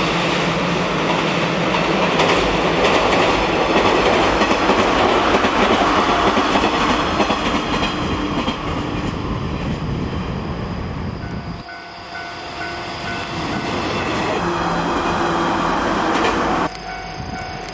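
A JR West 115 series electric train runs past at close range, its wheels clattering over the rail joints in a continuous clickety-clack. The sound changes abruptly near the end.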